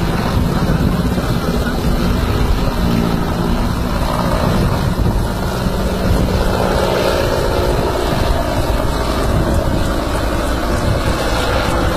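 Indian Army helicopter's rotor and engine running loud and steady, a continuous noise with a low steady hum underneath.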